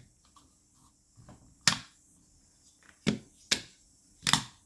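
Sharp hard clacks, about four of them spread a second or so apart, as salvaged projector blower fans are handled and set down.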